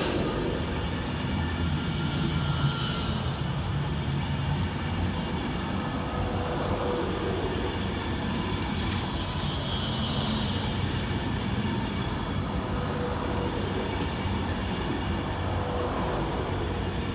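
A train running through the station, a steady rumble of wheels on the rails throughout.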